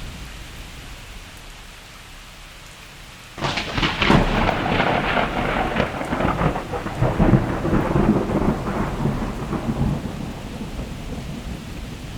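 Steady rain with a close thunderclap that breaks suddenly about three seconds in, a sharp crackling crash that rolls on with crackles for several seconds and slowly fades back under the rain.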